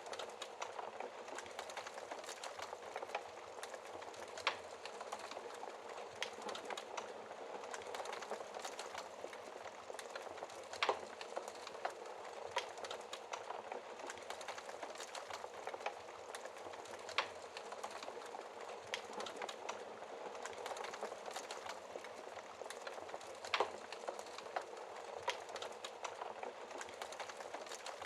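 Wood fire in a fireplace crackling: a steady hiss with scattered sharp pops, a few of them louder.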